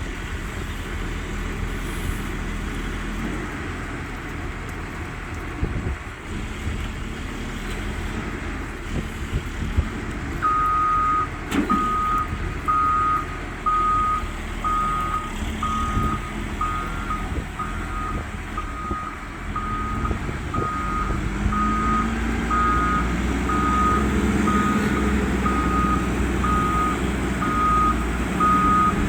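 Heavy machine's engine running with a low rumble, and its reversing alarm beeping steadily at about one beep a second from about a third of the way in, as it backs up with a boat for storage.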